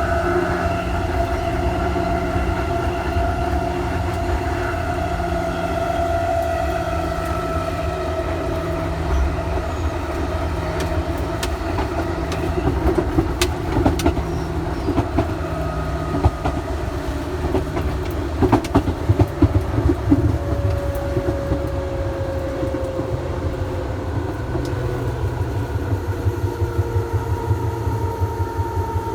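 Electric train running, heard from inside the car: steady motor whine tones that slowly fall in pitch over a low rumble, with clusters of rail-joint clicks under the wheels in the middle stretch and again near the end.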